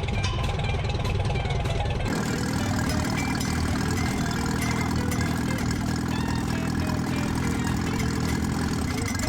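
Old tractor engines running steadily. About two seconds in the sound switches abruptly from a deeper rumble to another steady-running engine.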